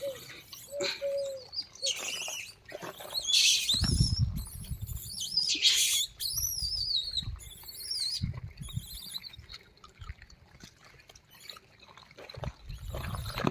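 Birds calling in high, wavering chirps, most of them between about three and nine seconds in, over scattered rustling and a few low thumps.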